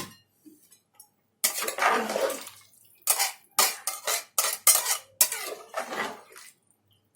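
Metal cookware clattering around a pressure cooker as water is measured into it. A run of about a dozen sharp clinks and knocks begins about a second and a half in.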